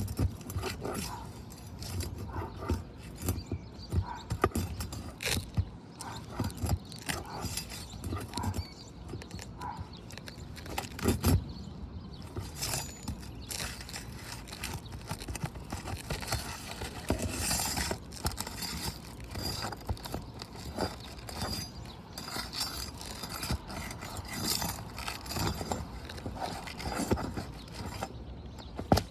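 Irregular clicks, taps and scraping of hand tools on asphalt roof shingles while staples are pried out of them, with a sharper knock about eleven seconds in.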